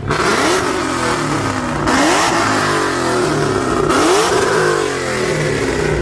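A car engine revved in short blips about three times, rising in pitch each time, running loud in between.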